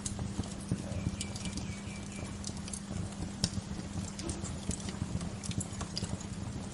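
Wood fire crackling, with frequent irregular sharp pops and snaps over a steady low rumble. A thin high tone sounds for about a second near the start.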